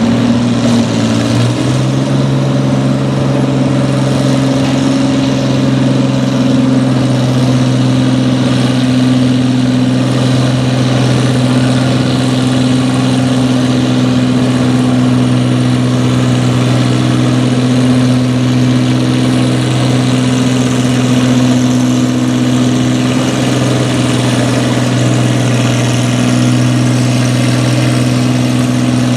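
Farm pulling tractor's engine revving up over the first two seconds, then running loud and steady at high speed, typical of a tractor under load dragging the pulling sled.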